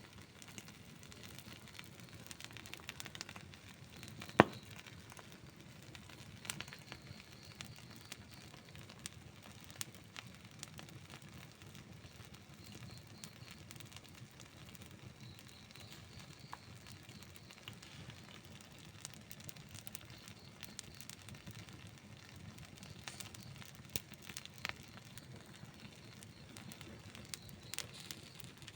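Outdoor wood campfire burning: a low steady rush of flame under frequent small crackles, with one loud sharp pop about four seconds in and a few smaller pops near the end.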